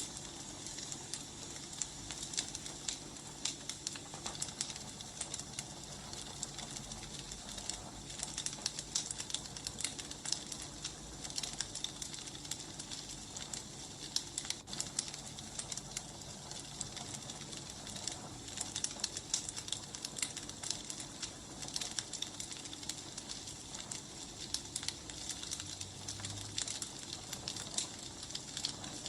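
Wood fire crackling steadily, with frequent sharp pops and snaps over a soft hiss.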